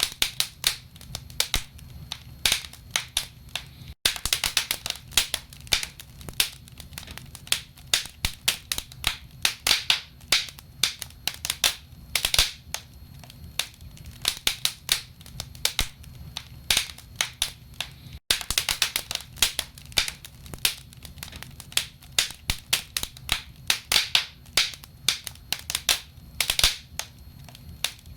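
Wood fire burning in a fireplace, crackling with irregular sharp pops and snaps several times a second over a steady low rumble of the flames.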